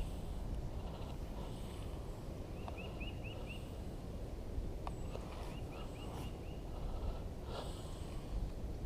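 Wind rumbling on the microphone, with a bird calling in two quick runs of about five high, short chirping notes, about three seconds in and again about six seconds in.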